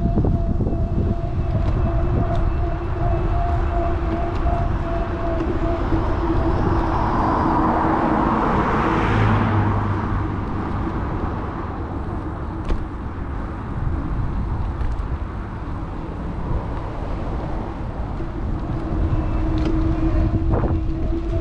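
Wind and road rumble on a GoPro carried on a moving electric bike, with a steady hum from the bike's motor; a car passes about eight to ten seconds in, swelling and fading.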